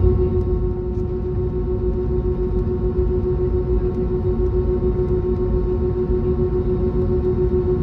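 Airbus A320neo cabin sound while taxiing: the engines running at idle give a steady drone, one strong steady hum with fainter higher tones over a low rumble.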